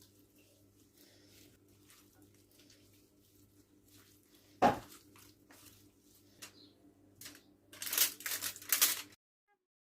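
Kitchen handling sounds over a steady low hum: a single sharp knock a little before halfway, then about a second of scraping and rustling near the end that stops abruptly.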